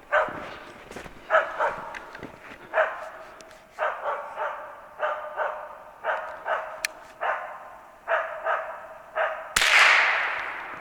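Hunting dog barking repeatedly, about once a second, at a squirrel up in a tree. About a second before the end a single gunshot cracks out, the loudest sound, with a long fading echo.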